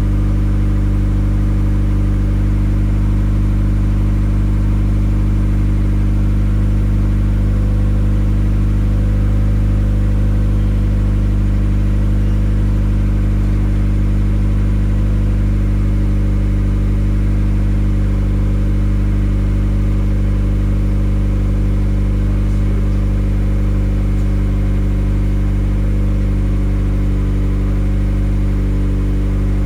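1997 Mazda MX-5 Miata's 1.8-litre inline-four engine idling steadily at an even, unchanging speed.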